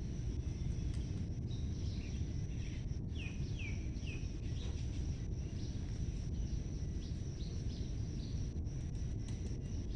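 Outdoor ambience: a steady low rumble with a thin high-pitched tone running under it. A bird gives a few short falling chirps about three to four seconds in.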